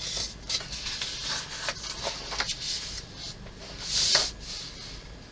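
Paper rustling and crinkling as an instruction booklet is handled and its pages are turned, with small clicks, and one louder swish of a page being turned about four seconds in.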